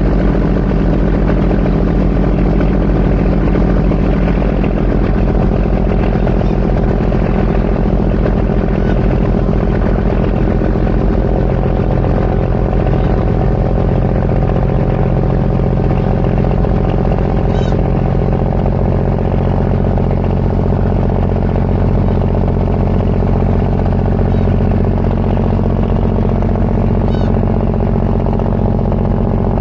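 A ferry's diesel engine running at a constant speed, a steady deep drone with no change in pitch.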